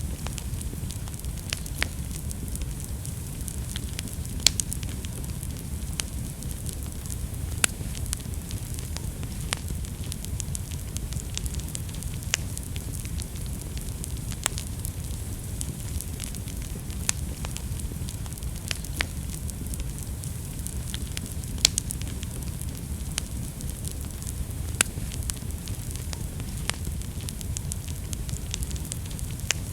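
Wood fire burning in a fireplace: a steady low rumble and hiss of flames with irregular sharp crackles and pops, a few louder pops standing out.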